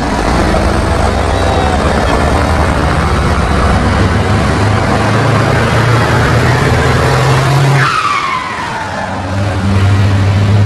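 Fiat heavy truck's diesel engine running hard. About eight seconds in, the revs drop with a falling whistle, then the engine picks up again near the end.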